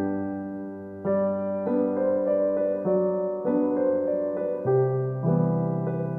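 Background music: a gentle solo piano piece, notes and chords struck every half second or so.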